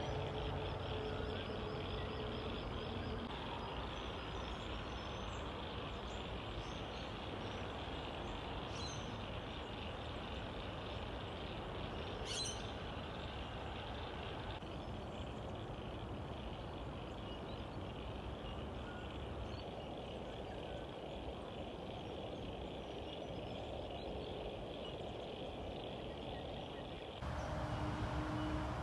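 Outdoor nature ambience: a steady, even rushing noise with a few brief bird chirps, two of them about 9 and 12 seconds in. The sound changes abruptly near the end, as at an edit.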